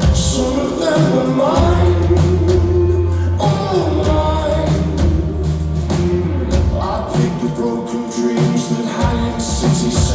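A rock band playing live with a sung vocal line over a sustained bass and steady drums.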